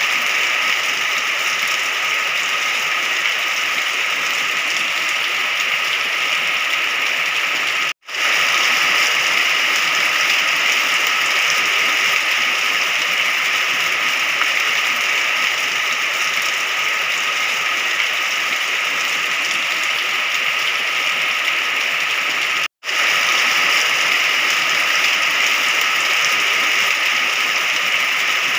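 Rain falling steadily as an even hiss, cutting out completely for an instant twice, about 8 seconds and 23 seconds in.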